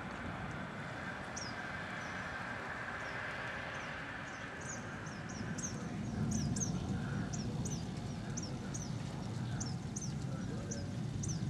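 Small birds chirping in short, high, downward-sliding notes, sparse at first and coming thick and fast from about halfway in, over a steady background rush; about six seconds in a louder low rumble comes in.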